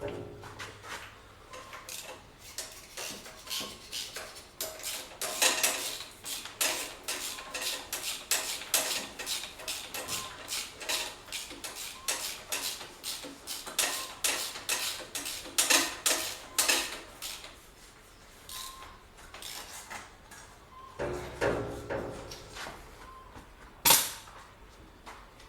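Metal hand tools clinking and clicking against steel as bolts are worked on a tractor: a fast, even run of short metallic strokes, about three or four a second, that thins out after the middle, then one sharp, loud metal hit near the end.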